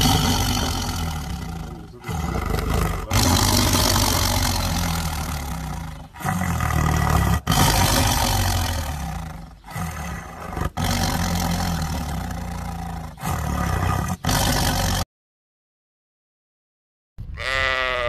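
Tiger growling and roaring in long, deep, rumbling stretches separated by brief pauses, stopping abruptly about 15 seconds in. After a few seconds of silence, a single sheep bleat comes near the end.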